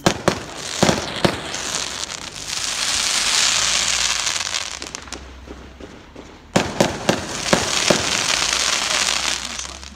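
Fireworks going off: a few sharp bangs near the start, a long crackling hiss, then a second cluster of bangs about six and a half seconds in, followed by more crackle.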